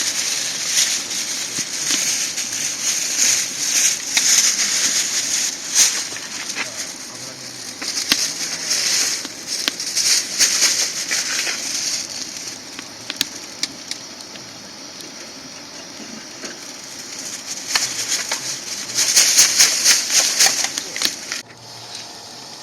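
Wood fire burning in a small camp fire stand, crackling with sharp pops and surges of hiss. It quietens briefly and flares louder again near the end.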